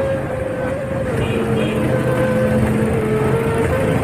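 Motor vehicle running, with a steady whine that shifts slightly in pitch over a rumbling background.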